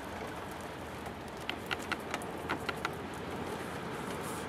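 Heavy rain falling, a steady hiss, with a quick run of light ticks about a second and a half in.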